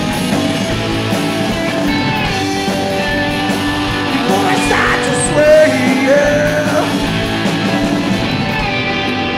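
Live rock band playing mid-song, a loud, steady mix of electric guitar, bass, lap steel and drums, with gliding sustained notes over the band.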